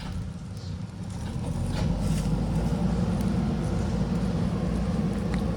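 JCB backhoe loader's diesel engine running, growing louder about a second and a half in and then holding a steady working note.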